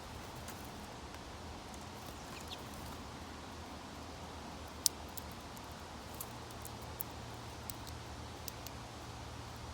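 Birds at a seed feeder: a scattering of short, sharp clicks and taps, the loudest about halfway through, over a steady outdoor hiss.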